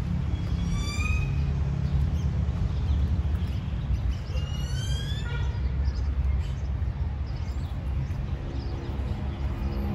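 Wild bird calling twice, a short rising whistle about a second in and a longer run of rising whistles about five seconds in, over a steady low background rumble.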